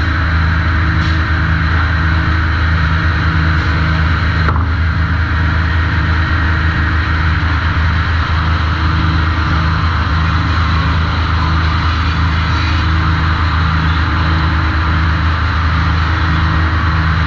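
Sawmill machinery running steadily at the trim saw: a loud low drone with a regular pulsing beat about one and a half times a second. A single sharp knock comes about four and a half seconds in.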